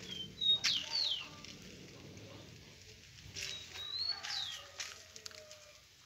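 Bird calls: short, high whistled notes that slide up and down, in two brief phrases about three seconds apart.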